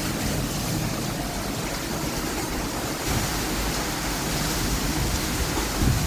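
Heavy rain pouring down in a steady, even hiss, with a brief low rumble near the end.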